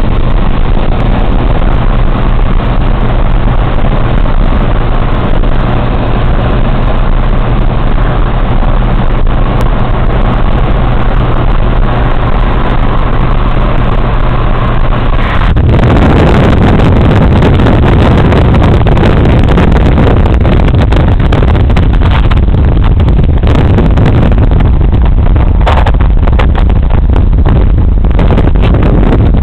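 Scania truck's diesel engine running, loud and close, with a steady low hum. A little past halfway the engine sound abruptly becomes louder and rougher and stays that way.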